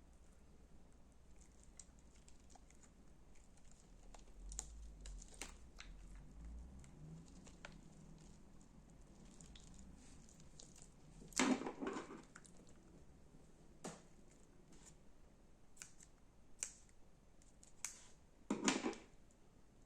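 Slime being handled by hand: scattered soft clicks and crackles, with two louder, short squelching pops about eleven and eighteen seconds in.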